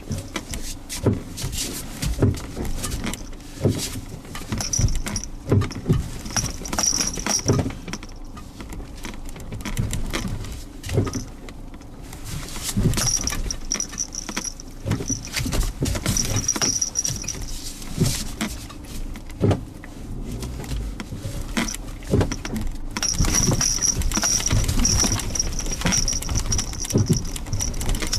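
Suzuki Jimny Sierra driving slowly over a rough dirt forest road: steady engine hum with irregular knocks, clunks and rattles from the bumpy surface. An on-and-off high-pitched buzz comes and goes over it.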